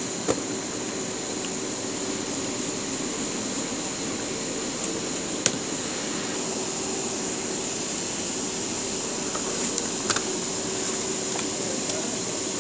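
Steady mechanical hum with a faint high whine, broken by a few light clicks and taps.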